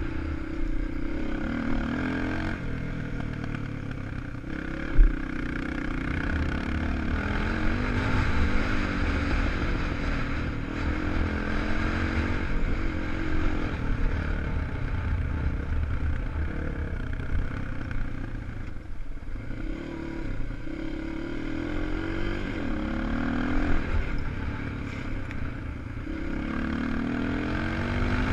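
250 cc enduro motorcycle engine revving up and down as it is ridden over a dirt track, with a heavy low rumble underneath. A single sharp knock about five seconds in.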